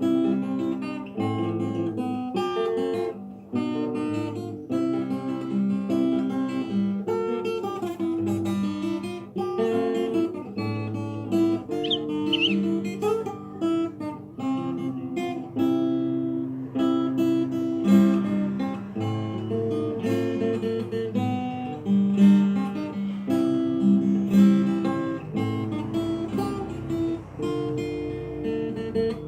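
Solo fingerstyle acoustic guitar, plucking a melody over a bass line.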